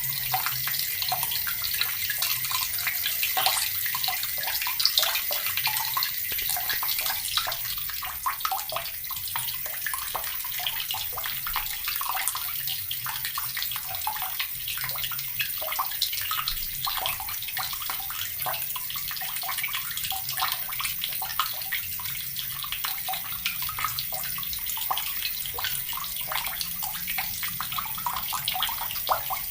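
Water tap running steadily, with a constant rushing hiss and irregular splashing as the stream hits the surface below.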